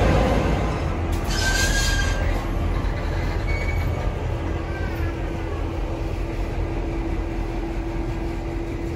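Diesel-hauled heritage train rolling slowly past with a low rumble. There is a brief hiss about a second in, short high wheel squeals, and a steady hum through the second half.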